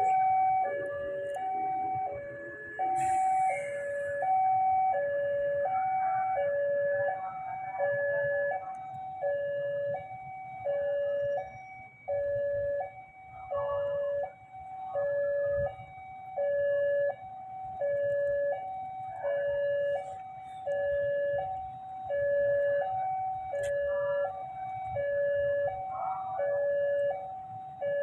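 Railway level-crossing warning alarm sounding a steady two-tone hi-lo signal, the higher and lower tone swapping evenly, about one pair a second: the signal that a train is approaching and the gates are closed.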